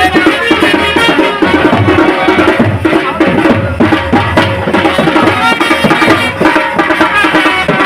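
Loud traditional band music: drums beating a steady rhythm under a pitched melody line.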